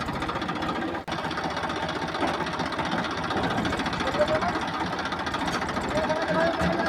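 Small toy-vehicle motor and gears running with a steady rapid rattle, cutting out for an instant about a second in.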